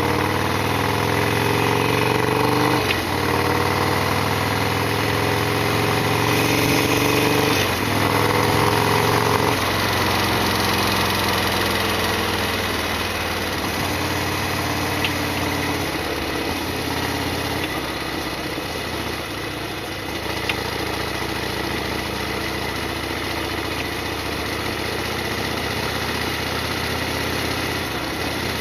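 Modified Harley-Davidson Sportster XL1200R's V-twin engine pulling away. Its revs rise and drop back at gear changes about three, seven and a half and nine and a half seconds in, then it runs steadily at an even speed.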